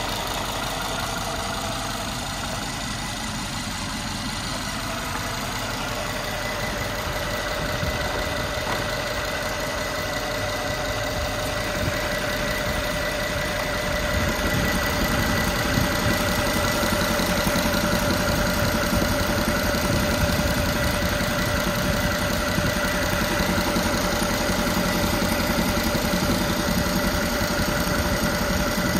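Mercedes-Benz W221's twin-turbo V6 engine idling steadily with the bonnet open, a steady high whine over the running. It gets louder about halfway through.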